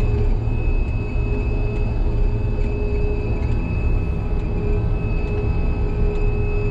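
Combine harvester engine running steadily: a low drone with a constant whine held on top.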